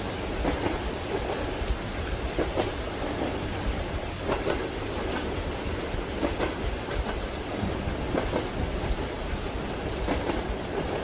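Steady rain with a train's wheels clacking over rail joints underneath, a knock about every two seconds over a low rumble of the moving carriage.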